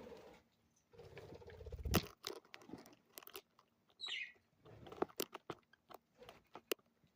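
Budgies pecking and crunching seeds at a treat tray: scattered small clicks and crunches, a louder knock about two seconds in, and a short chirp about four seconds in.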